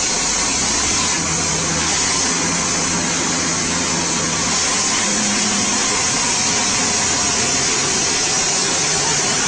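Steady engine noise with a strong hiss and a faint low hum underneath, unbroken throughout.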